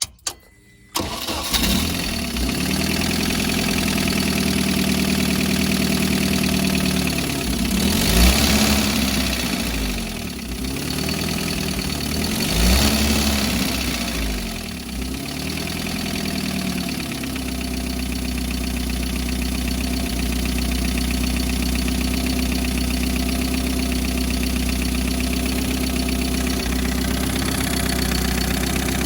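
UAZ's UMZ-4213 four-cylinder petrol engine starting about a second and a half in, then idling, revved up and back down four times before settling to a steady idle. The engine has a knock of unclear cause that comes and goes, which the owner is trying to trace with oil pressure and oil level both normal.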